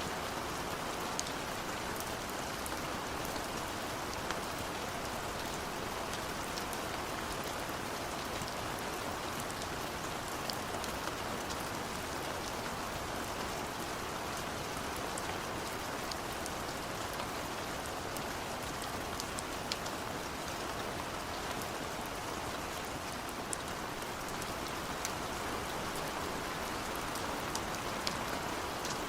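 Steady rain falling, an even hiss with many scattered individual drops ticking through it.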